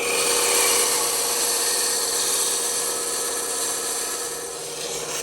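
Bandsaw blade cutting through wood: a steady sawing hiss over the machine's constant hum, easing off slightly near the end.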